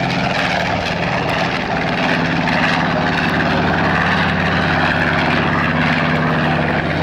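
Propeller airplane's piston engine running in a steady drone, its pitch shifting slightly about two seconds in.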